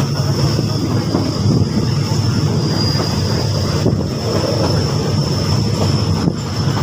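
Passenger train running along the line, a steady rumble and rush of the moving carriage heard from inside, with a thin steady high whine over it.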